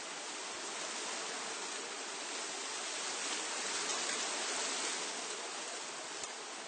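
Wind blowing through trees, a steady rushing of leaves and foliage that swells a little in the middle.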